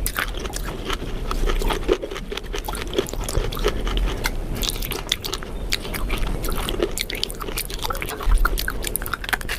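A person chewing and crunching food close to the microphone, with many irregular sharp crunchy bites.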